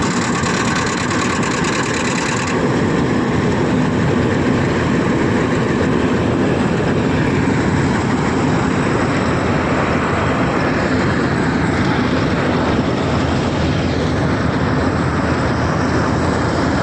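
Combine harvester running steadily while harvesting rice, its engine and threshing machinery making a loud, continuous noise.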